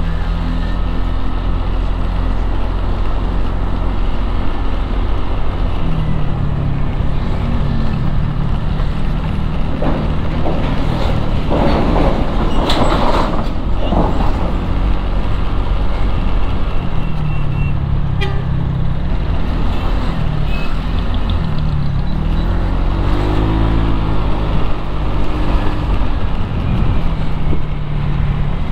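Motorcycle engine riding through traffic, its pitch rising and falling again and again with the throttle and gear changes, over a steady rumble of road and wind noise. A louder stretch of hissing traffic noise comes about twelve seconds in.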